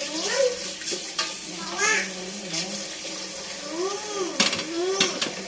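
Pot of chicken adobo simmering with a steady watery hiss. A child's voice makes rising-and-falling sounds over it, and a couple of sharp clicks come near the end.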